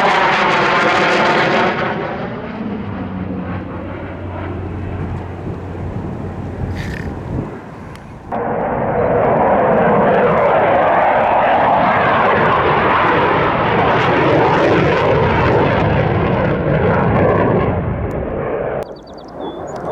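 Aircraft engine noise from a plane flying past, loud with sweeping tones in the first couple of seconds, then fading. It cuts suddenly to another loud pass about eight seconds in, which drops away abruptly near the end.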